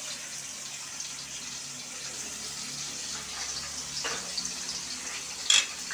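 Chopped chilli peppers frying in hot sunflower oil in a large aluminium pot, a steady soft sizzle, with a brief clatter near the end.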